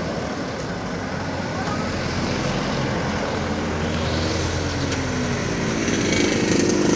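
Heavy diesel engine of an earthmoving machine running steadily, then revving up and working harder over the last few seconds.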